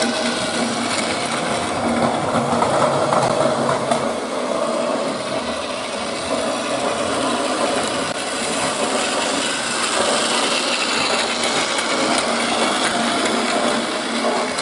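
Plarail toy train running on plastic track, its small electric motor and gears whirring steadily with a light clatter.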